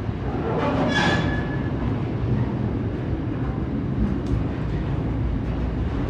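Container wagons of an intermodal freight train rolling past: a steady low rumble of steel wheels on the rails, with a brief high squeal about a second in.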